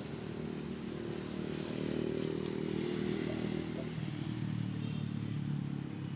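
A motor vehicle engine running steadily, its pitch dropping a little about four seconds in.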